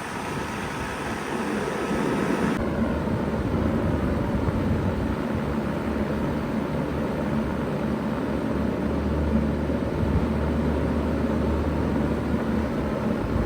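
2000 Bard 3-ton wall-hung heat pump running in cooling mode: a steady rush of fan air over a low hum. About two and a half seconds in, a faint high tone drops out and the hiss lessens.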